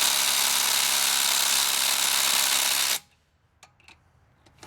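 Ridgid cordless impact driver hammering steadily on a lug nut, loud and even, then cutting off abruptly about three seconds in; a few short clicks follow.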